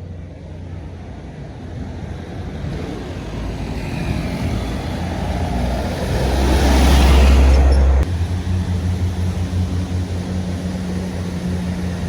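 Heavily loaded truck passing close by: engine and tyre noise build to a peak about seven seconds in, with a heavy low rumble that cuts off suddenly. A steady low engine hum runs underneath throughout.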